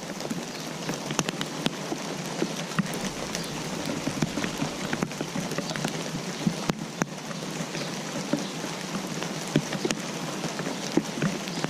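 Steady rain falling, with many individual drops striking a surface in irregular sharp ticks over an even hiss.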